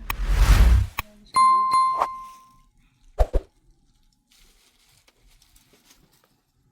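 A short rushing noise, then a ringing metallic ding that fades away over about a second, struck again just after, followed by two short knocks.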